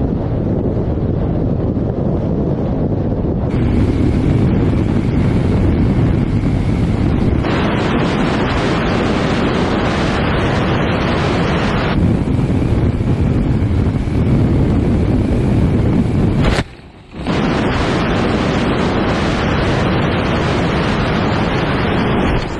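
Loud wind rushing over a camera microphone, a steady roaring hiss with no engine tone. It changes abruptly several times and drops out for about half a second near the end.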